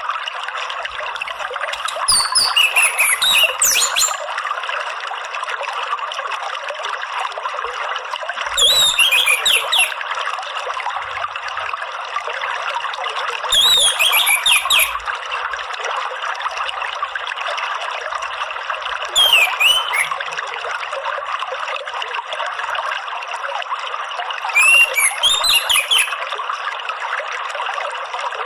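Orange-headed thrush (anis merah) singing short phrases of quick, sweeping whistled notes, six times at about five-second intervals, over a steady rush of flowing water.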